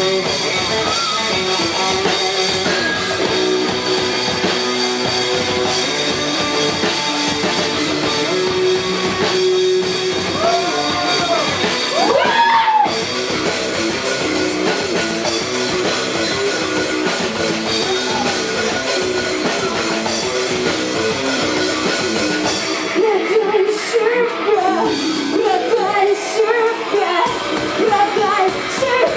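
Rock band playing live: electric guitar, drum kit and a singer.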